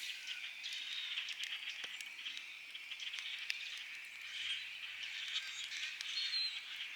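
A dense, steady chorus of frogs calling, with a campfire crackling and popping in short sharp clicks throughout.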